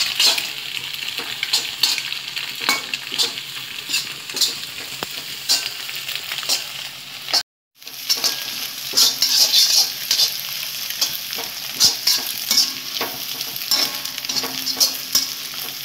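Egg, capsicum and onion sizzling in a wok over a medium flame while a spatula scrapes and turns them in quick, repeated strokes. The sound drops out completely for a split second about halfway through.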